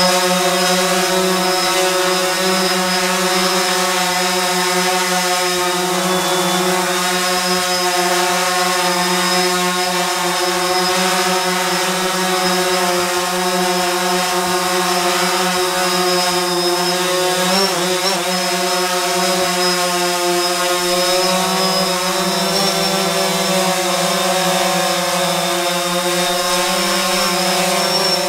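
DJI Phantom 4 Pro quadcopter's propellers and brushless motors, a loud steady whine while hovering. The pitch wobbles briefly about two-thirds of the way through.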